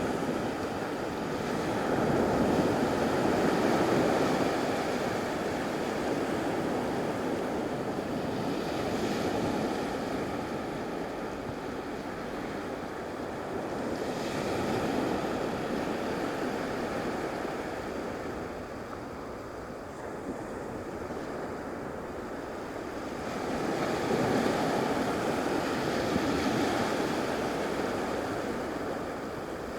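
Gulf of Mexico surf washing onto a sandy beach, the wash swelling and fading every several seconds, with wind buffeting the microphone.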